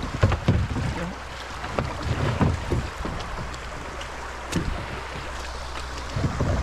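Kayak paddling down a shallow creek: paddle strokes splashing and irregular low thuds over a steady rush of moving water.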